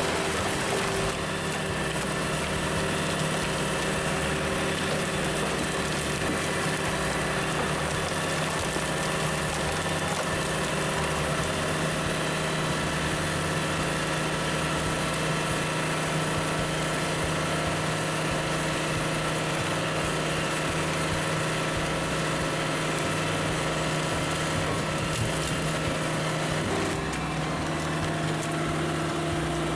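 Large log splitter's engine running steadily, with a slight change in its tone near the end.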